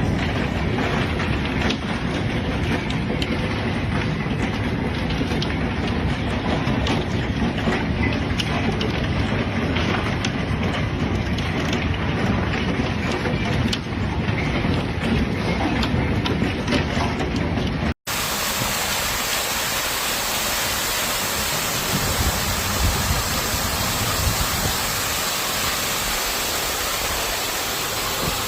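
Torrential rain in two separate recordings: first a dense, low, rushing noise with a rough, crackling texture, then, after an abrupt cut about eighteen seconds in, a steady high hiss of heavy rain.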